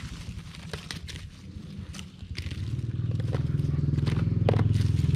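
A small engine running with a rapid low throb that gets clearly louder about halfway through, as it revs up or comes closer. Scattered dry crackles and clicks, like handling of dry corn plants, come through as well.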